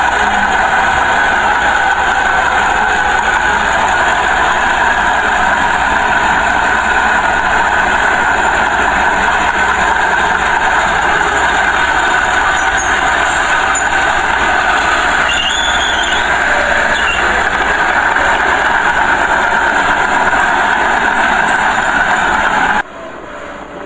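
Earthmoving machinery running steadily under work, with loud, even diesel engine and machine noise. It drops suddenly to a much lower level about a second before the end.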